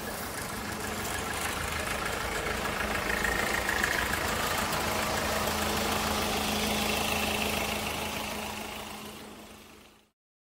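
Street noise with a motor vehicle's engine running with a steady hum, louder over the first few seconds; everything fades out near the end.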